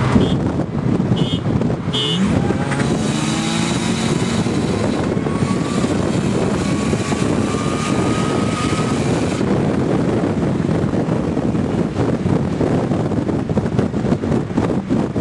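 A forced-induction Honda K-series four-cylinder engine in a Civic accelerating hard, its pitch climbing in two pulls with a break about five seconds in, like a gear change. A high rush eases off near the middle of the clip.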